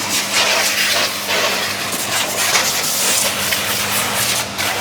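Portable electric high-pressure washer running: a steady motor hum under the hiss of its water jet spraying.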